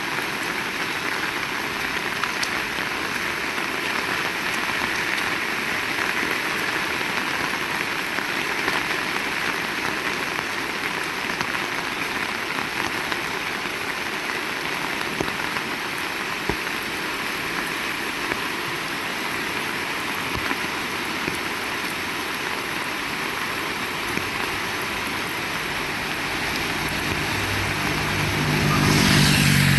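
Heavy rain falling steadily on surfaces. Near the end, a motor vehicle's engine comes in and grows louder as it approaches.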